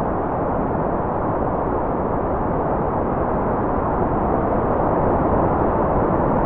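Constant generated white noise: a steady, even hiss with its energy in the low and middle range and little above a few kHz, unchanging throughout.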